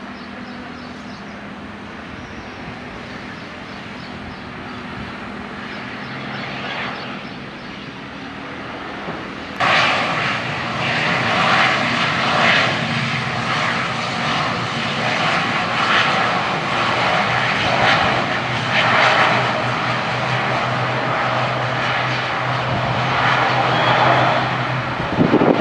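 ATR 72-600 turboprop's engines and propellers running with a steady low drone as it lands. About ten seconds in, the sound turns suddenly much louder and rougher and stays that way.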